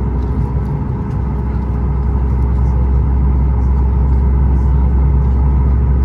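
Steady low rumble of a Boeing 737 MAX 8's CFM LEAP-1B engines and airflow heard inside the passenger cabin, with a faint steady hum over it.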